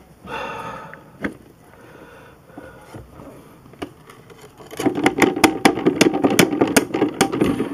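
Dirt cup of a bagless upright vacuum being emptied into a sink: a brief rustle of debris pouring out, then from about five seconds in a louder run of rapid knocks and rattles, about four or five a second.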